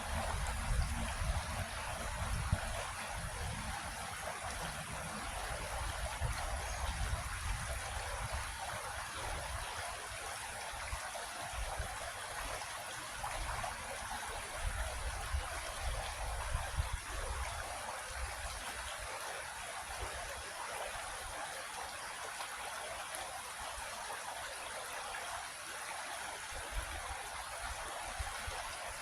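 Creek water flowing steadily over rocks, a continuous even rushing, with an uneven low rumble underneath that is stronger in the first half.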